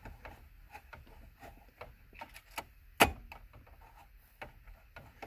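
Scattered small clicks and taps of plastic steering-column trim and a screw being handled while it is worked into place, with one sharp click about three seconds in.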